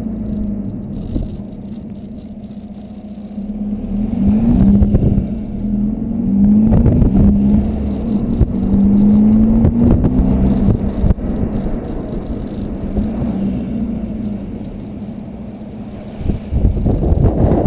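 Volkswagen Golf 2.0 TDI diesel running through a 3-inch Cortek exhaust with a high-flow cat, as the car is driven. It is quieter at first, then louder from about four seconds in, with the engine pitch rising and dropping several times, and it eases off again before picking up near the end.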